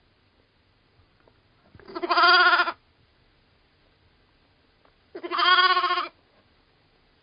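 A farm animal bleating twice, each call about a second long with a wavering, quavering pitch, about three seconds apart.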